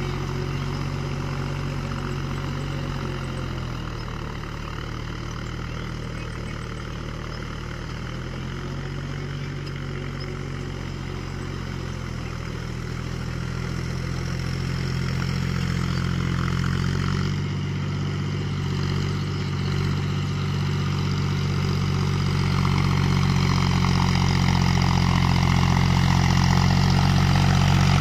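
John Deere 5050D tractor's three-cylinder diesel engine running steadily, getting louder over the second half.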